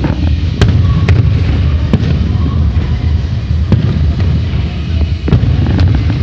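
Fireworks going off: a series of sharp bangs and pops, roughly one every second, over a continuous low rumble.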